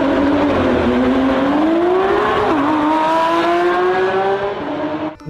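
Sports car engine revving with a rising pitch over a rush of tyre and road noise. The pitch dips briefly about two and a half seconds in, climbs again and holds, then the sound cuts off abruptly near the end.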